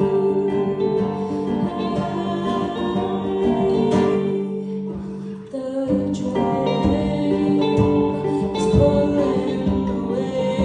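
Live band music with singing; the music thins and drops briefly about halfway through, then comes back in full.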